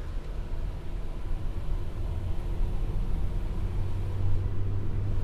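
An 85 hp 1.2-litre Opel Corsa driving along the road, heard from inside the cabin: a steady low rumble of engine and tyre noise. The engine hum grows a little stronger about four seconds in.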